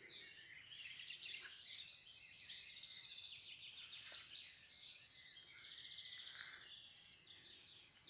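Songbirds singing faintly, several overlapping high chirps and quick trills.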